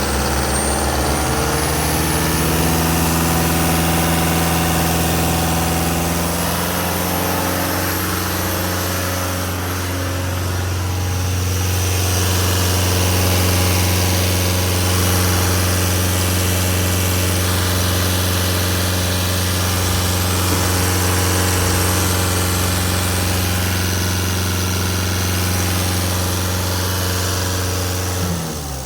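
Mercedes OM904LA 4.3-litre inline-four turbodiesel running steadily at idle, then shut off near the end, its note falling away.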